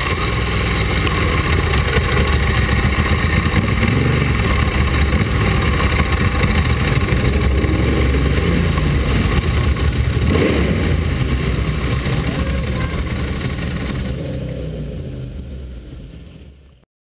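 Ducati race motorcycle's engine running at low revs, its pitch rising and falling a few times with the throttle, fading out over the last few seconds.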